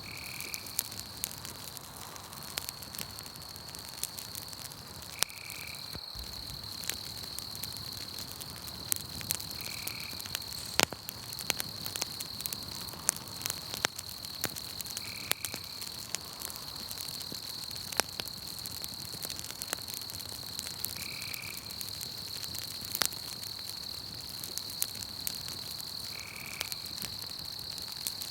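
Campfire crackling with scattered sharp pops over a steady high insect trill, like crickets at night. A short call, which may be a frog, comes about every five seconds.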